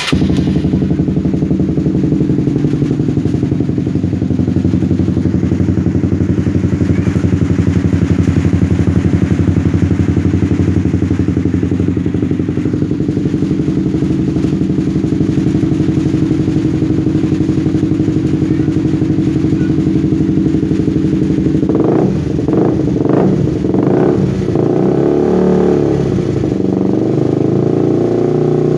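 Old Honda CB150R's single-cylinder engine running through a custom Termignoni exhaust, idling steadily. In the last several seconds the throttle is blipped a few times, so the revs rise and fall.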